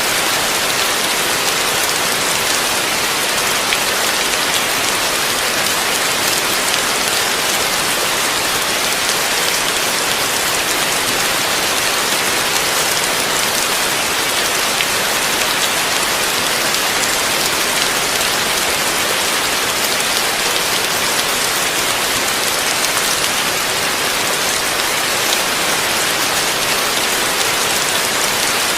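Heavy rain falling steadily, a dense even hiss of drops on a surface with scattered individual drop ticks.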